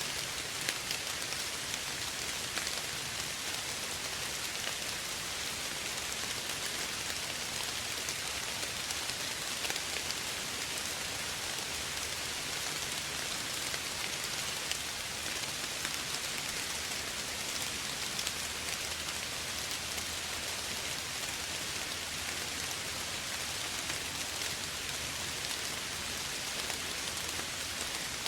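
Steady gentle rain falling, an even hiss with scattered drops pattering on a surface.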